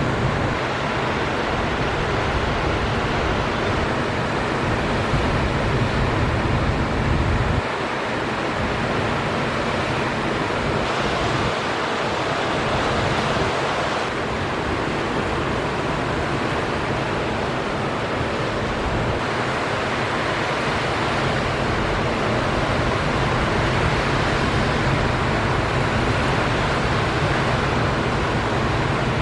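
Steady noise of big ocean surf breaking, with wind rumbling on the microphone that is strongest in the first seven seconds or so, then eases suddenly.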